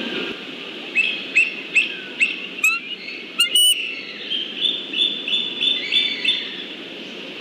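Bald eagles calling: a run of sharp, high piping chirps, several falling in pitch, then a quicker series of shorter, flatter notes, over a low steady background hum.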